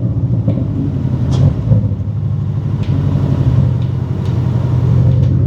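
Porsche 718 Cayman's turbocharged flat-four engine running steadily at a cruise in Sport mode. Its intake noise comes through the aftermarket turbo inlet pipe, along with light mechanical noises and a few faint ticks.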